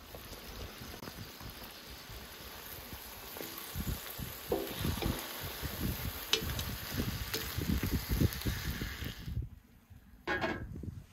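Guinea fowl pieces, tomatoes and onions sizzling on a hot round steel griddle pan while a spatula stirs and scrapes them. The sizzle cuts off about nine seconds in, followed by one short knock near the end.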